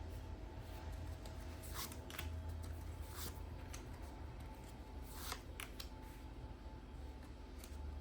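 Faint rustling and a few soft clicks of tarot cards being handled, over a low steady hum.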